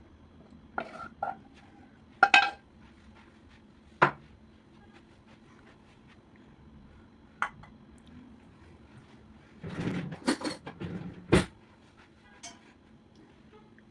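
Dishes and cutlery clinking and knocking as they are handled and set down, in a string of separate sharp clinks, some briefly ringing, with a busier cluster of knocks about ten seconds in.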